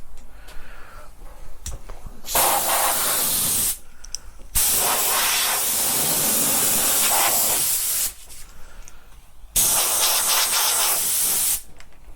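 Compressed air blowing sanding dust off a freshly sanded painted guitar body, in three hissing blasts: a short one about two seconds in, a longer one of about three seconds, then another of about two seconds near the end.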